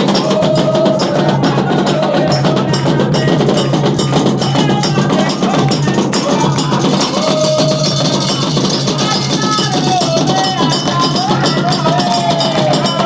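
Candomblé drumming: hand drums and a metal bell played in a dense, steady rhythm, with voices singing a melody over it.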